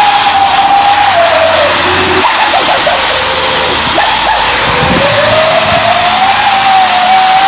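Truck running on the road, loud engine and road noise with a whining tone that drops about two seconds in and climbs back up from about five seconds in.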